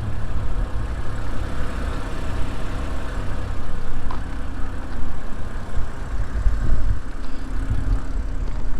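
A BMW 328i convertible's straight-six engine idling, a steady low rumble.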